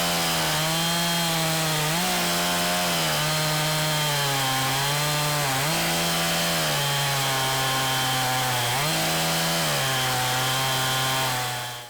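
Large two-stroke chainsaw with a freshly sharpened chain, running at high revs under load. Its engine pitch sags each time it bites into the wood and climbs back, several times over. The sound cuts off suddenly near the end.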